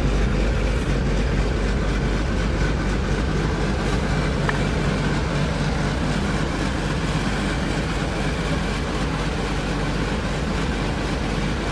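1947 Dodge's flathead straight-six engine idling steadily and running smoothly, still warming up shortly after a cold start.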